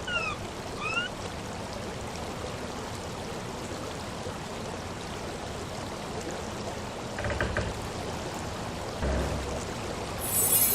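Steady rushing water, like a stream. Near the start there are two short whistling glides, one falling and one rising, and two soft low thuds come later.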